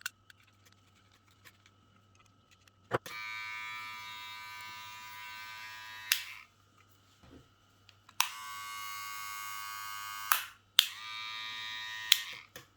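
VGR electric hair clipper switched on and running in three short spells of a steady buzz, each starting with a click of the switch and cutting off again.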